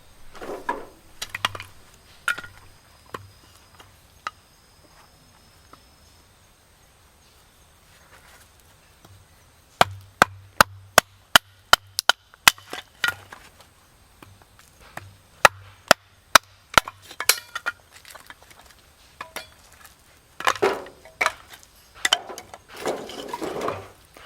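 Firewood being chopped or split: a run of sharp wooden knocks, about two a second, in the middle, with rougher rustling and scraping of wood near the end.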